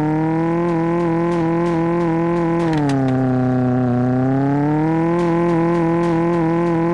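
A car engine held at steady high revs, its pitch sagging slowly and then climbing back twice.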